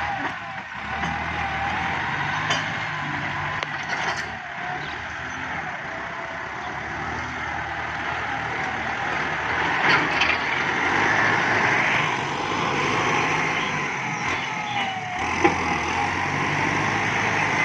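Kubota MU5702 tractor's diesel engine running steadily under working load, with a wavering whine and a few sharp knocks.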